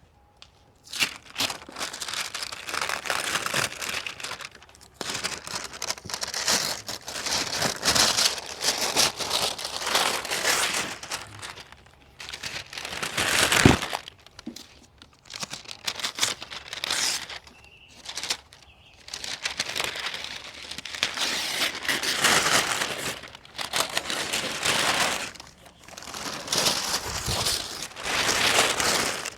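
Repeated crinkling, rustling handling noise in stretches of a few seconds with short pauses between, and one sharp knock about halfway through.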